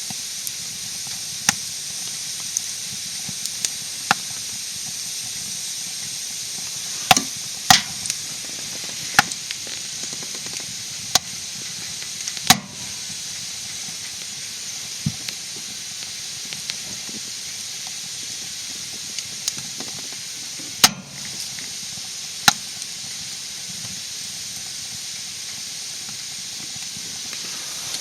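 Wood fire burning in a camp fire stove, crackling with sharp pops at irregular intervals over a steady hiss.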